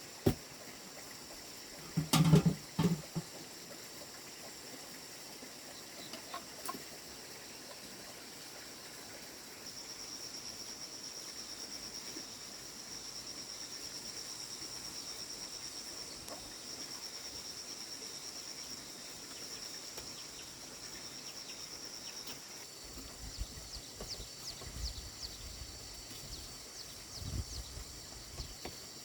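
Farmyard sounds with chickens clucking, a few short knocks about two seconds in, and a steady high-pitched insect buzz lasting about twelve seconds in the middle.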